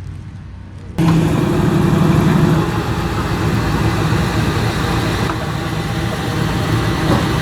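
A car engine running loudly with a low, steady rumble. It cuts in abruptly about a second in over a fainter engine hum.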